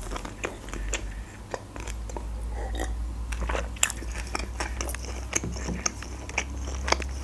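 Close-miked chewing of a mouthful of doner kebab in bread, with many small irregular clicks and smacks of the mouth.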